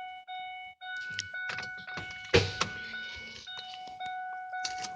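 Pickup truck's dashboard warning chime sounding as one steady tone, broken twice in the first second, with scattered clicks and a sharp knock about two and a half seconds in as the ignition is switched on.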